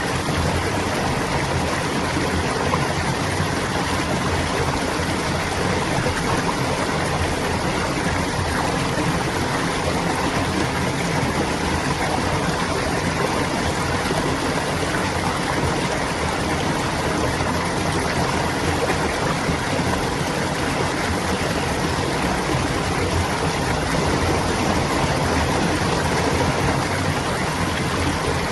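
Shallow stream of clear water flowing and splashing steadily over rocks.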